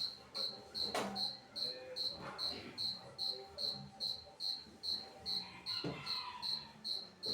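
Cricket chirping steadily, about two to three high chirps a second, with a couple of faint knocks in the background.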